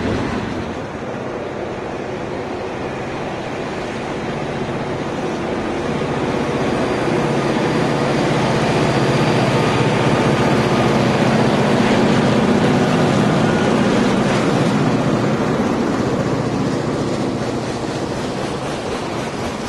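Freight cars rolling past on the rails with steady wheel and rail noise. About halfway through, a pair of Canadian Pacific diesel locomotives placed mid-train pass, their engines running louder for several seconds before the freight cars carry on.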